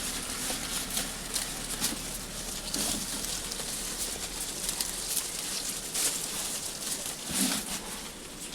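Goats feeding on freshly cut grass: steady rustling and crunching of the fodder, with a couple of short bleats, one about three seconds in and one near the end.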